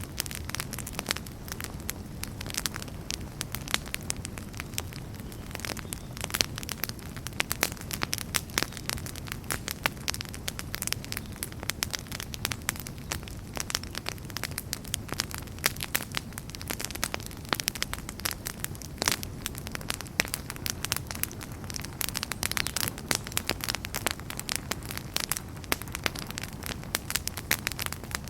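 Wood fire crackling in a fireplace: many sharp irregular pops and snaps over a steady low rush of flames.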